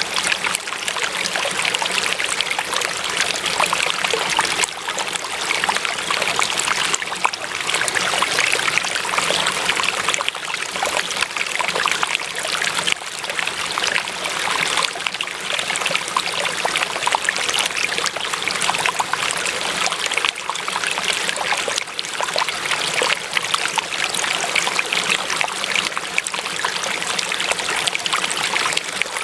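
Water running in a stream, trickling and splashing steadily.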